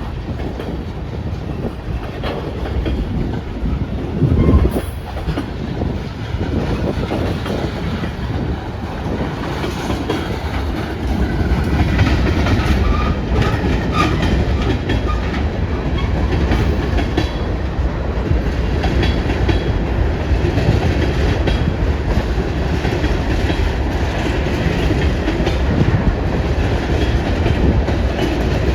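Freight cars of a long manifest train rolling past, wheels clacking over rail joints in a steady rumble that grows a little louder about a third of the way in. Strong wind buffets the microphone.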